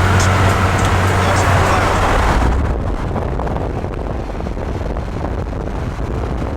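Vehicle engine and road noise while driving: a steady low engine hum under a rushing noise, which eases off about two and a half seconds in.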